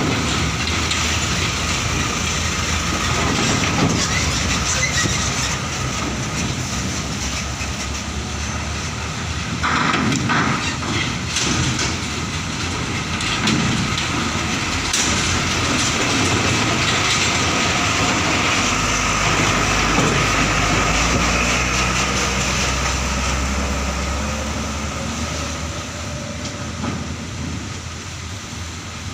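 Heavy trucks driving off a ferry onto the port ramp: diesel engines running, with a deep rumble swelling and fading in the middle and a few clanks of wheels crossing the steel ramp.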